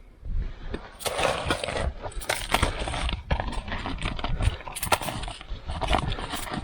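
Irregular knocks, clicks, scraping and crunching from hand work, with a dense scraping stretch about a second in.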